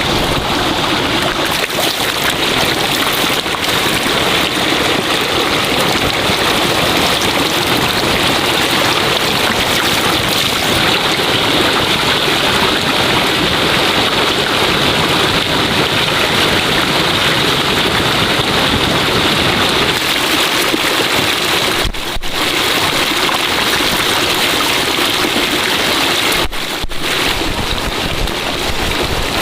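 Steady rushing water, loud and even, with two brief dips in level in the last third.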